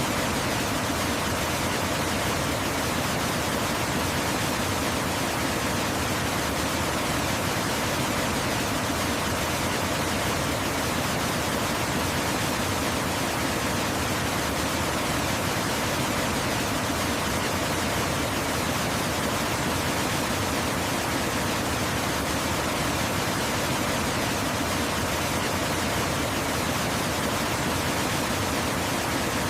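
Waterfall running: a steady, unchanging rush of falling water spread evenly from low to high pitch.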